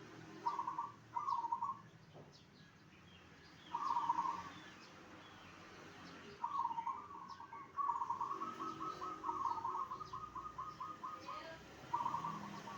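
Zebra dove (perkutut) cooing: several short phrases of cooing notes, then a longer run of rapid staccato notes about eight seconds in. Faint chirps of small birds sound behind it.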